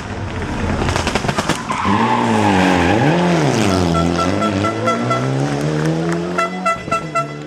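Rally car engine revving up and down hard with a run of sharp cracks in the first couple of seconds. Later, a rapid repeated beeping tone sounds twice over the engine.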